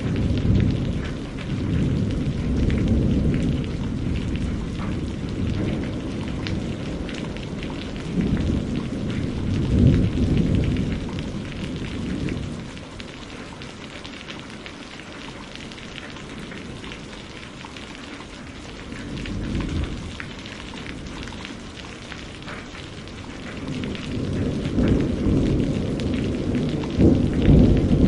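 Steady rain with rolling thunder: low rumbles swell and fade several times, loudest about ten seconds in and again near the end, with a quieter stretch of plain rain in the middle.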